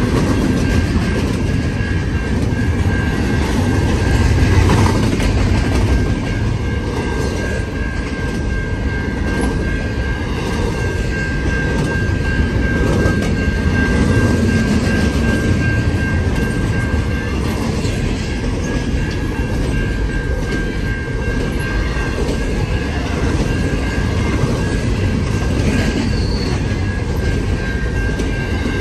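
Freight train cars rolling steadily past, with a continuous rumble and clatter of wheels over the rails. A steady high-pitched tone sounds over it, fading briefly about two-thirds of the way through.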